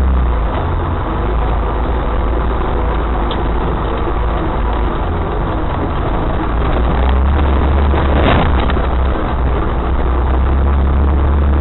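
Off-road 4x4 vehicle engine running steadily while driving, with a deep low rumble and a brief louder rush of noise about eight seconds in.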